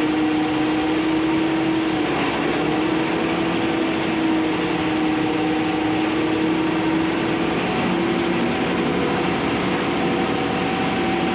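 Case IH 620 QuadTrac tractor running steadily while driving, heard from inside the cab: a constant engine drone with a held whine that shifts slightly in pitch about two seconds in and again near eight seconds.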